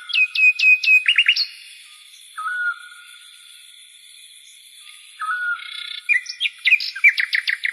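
A songbird singing two bursts of song. Each starts with a short low whistle, then a quick run of sharp, falling chirps. Lone whistles come between the bursts, and a faint steady high whine runs behind throughout.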